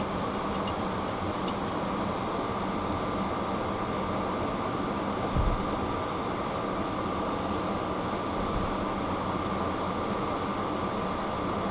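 Steady background hum and hiss of a running machine, with a faint constant high whine. There are a few light clicks near the start and one soft low thump about five and a half seconds in.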